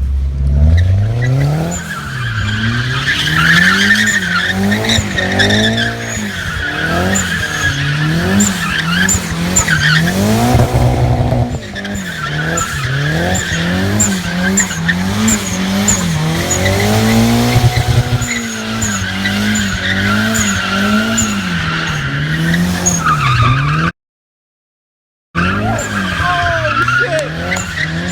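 Turbocharged rear-wheel-drive Subaru drifting: the engine revs rise and fall over and over while the rear tyres squeal steadily. The sound cuts out completely for about a second and a half near the end, then the revving and squeal resume.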